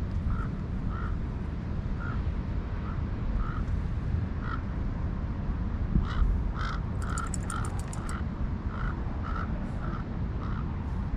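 Steady low rumble of Pacific surf and wind, with a run of short, same-pitched chirps about two a second over it.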